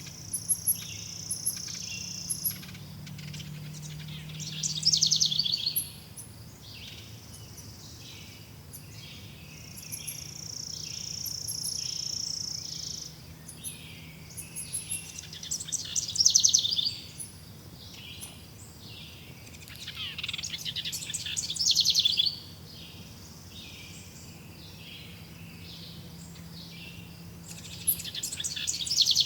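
Songbirds singing and calling: a short chirp repeated about once a second, a high steady trill held for two to three seconds twice, and four louder bursts of rapid song.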